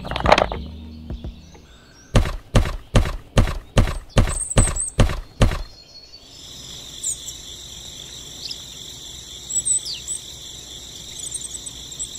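Small wooden sticks knocked down onto a stacked load: about a dozen sharp wooden knocks, roughly three a second, for about four seconds. Then a steady chorus of insects like crickets sets in, with a few bird chirps over it.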